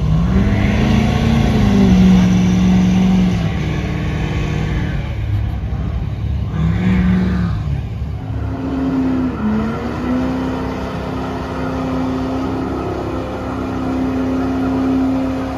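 Truck engine revving: it climbs and holds for a couple of seconds, drops back, revs briefly again, then holds at a steady high rev from about halfway through, with one short dip.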